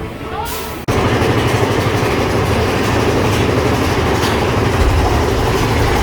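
Big Thunder Mountain Railroad ride train running along its track, a loud steady rumble and clatter that starts abruptly about a second in after a moment of music.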